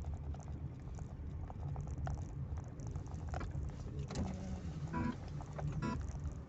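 Low, steady rumble of a car on the move, heard from inside the cabin, with scattered light clicks and rattles. Near the end come a few short, choppy pitched blips.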